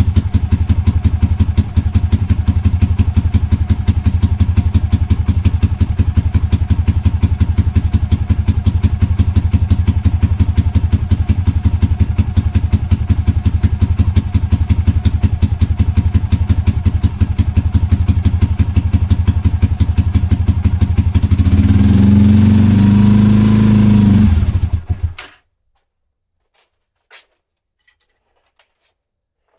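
Honda GB250 single-cylinder engine idling with an even pulsing beat, revved up briefly about three-quarters of the way in, then shut off suddenly, followed by a few faint clicks.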